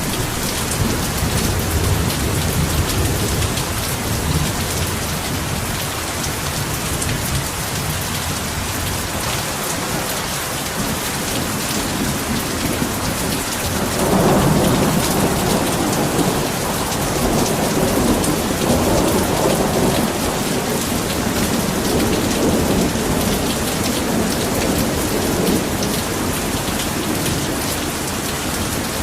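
Heavy rain falling steadily as a dense, even hiss. Thunder rumbles low early on, and about halfway through a louder roll of thunder breaks in and rumbles on for over ten seconds before fading.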